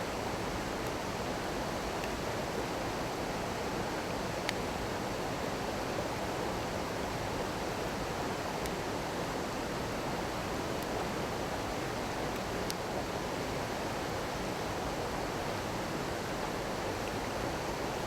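Small stream babbling steadily, with a few sharp pops from a crackling wood fire.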